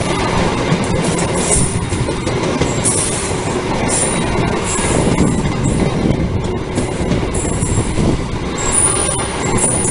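Long-distance passenger train passing close by, a loud, steady rumble of cars and wheels on the rails with thin high-pitched wheel squeals coming and going, strongest near the end.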